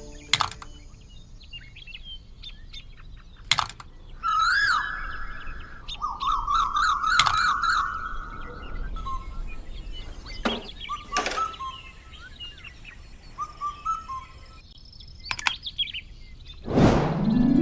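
Bird chirps and warbling trills, broken by several sharp clicks or taps. A loud burst of noise comes just before the end.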